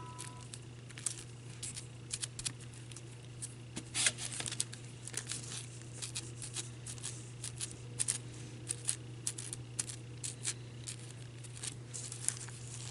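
Mod Podge being brushed and dabbed over a thin paper napkin on a wooden ornament: irregular light crinkly taps and scratches, over a steady low hum.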